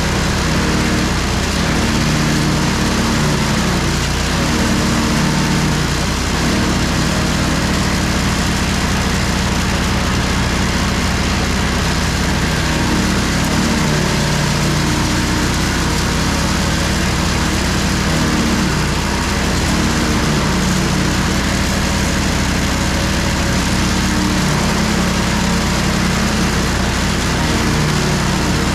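The 420cc, 15 hp gas engine of a Powerhorse 4-inch wood chipper shredder running steadily while chipping branches, its pitch wavering a little as the load changes.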